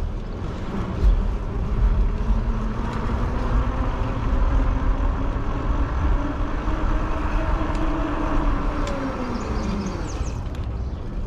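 Wind rumbling on the microphone and road noise during an e-bike ride. In the middle a humming tone rises and then falls over several seconds.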